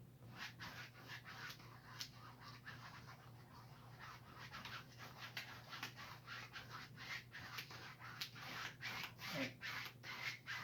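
Paintbrush stroking back and forth across a canvas, blending wet acrylic paint: a faint, quick run of soft scratchy swishes, two or three a second, over a steady low hum.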